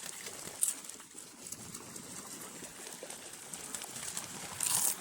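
Pigeons cooing, with short hissing rustles about half a second in and a louder one near the end.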